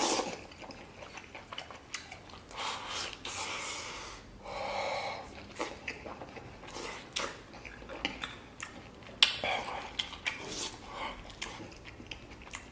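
A person chewing mouthfuls of braised beef: wet smacking chews with many short clicks, and one sharp click about nine seconds in.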